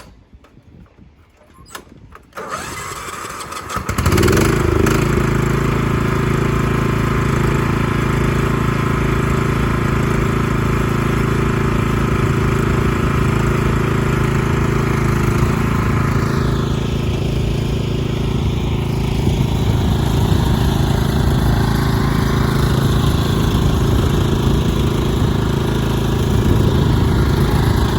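A small engine starts about two seconds in and then runs steadily.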